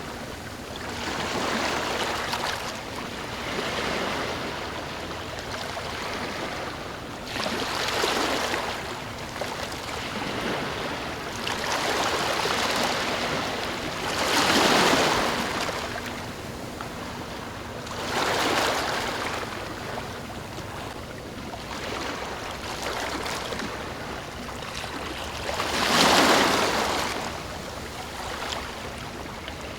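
Ocean waves breaking and washing in, one surge every few seconds over a steady wash of water, the strongest surges about halfway through and again near the end.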